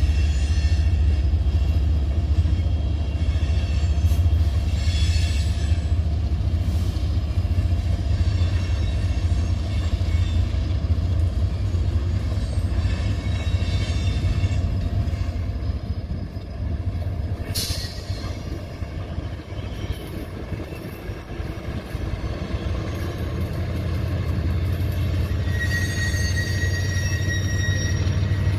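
A freight train of tank cars rolling past with a steady low rumble and faint high wheel squeal, and one sharp clank about two-thirds of the way through. Near the end the rumble grows as Union Pacific diesel locomotives come up, and a clearer high wheel squeal sounds.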